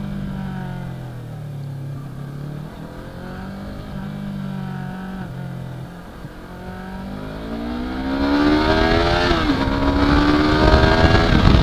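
Yamaha R3's parallel-twin engine running at low revs while the bike cruises, then accelerating from about seven seconds in. The pitch rises, dips briefly at a gear change and rises again. Wind noise grows as the speed builds.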